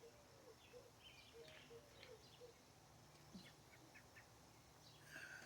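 Faint backyard birdsong: scattered short, high chirps over a row of quiet, short, lower notes repeating a few times a second.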